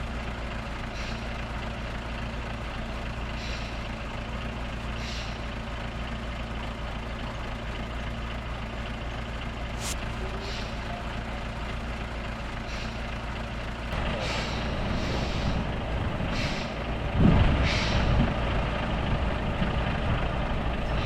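Heavy truck's diesel engine running steadily at low revs, with short high beeps every couple of seconds. About two-thirds of the way in the engine grows louder under load, with a loud surge a few seconds later.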